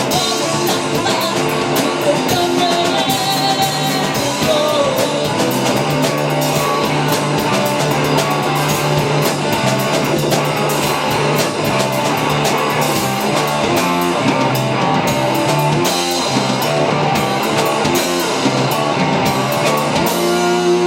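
Live rock band playing: electric guitars, bass and a drum kit with a voice singing over them.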